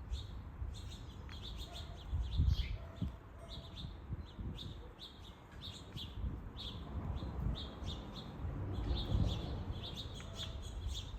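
Small songbirds at backyard feeders chirping over and over with short, high calls. A low wind rumble on the microphone rises and falls beneath them, strongest about two and a half and nine seconds in.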